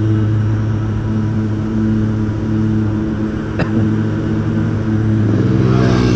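Motorcycle engine idling steadily, a low even running note. A brief click sounds about three and a half seconds in. Near the end a second engine joins and grows a little louder.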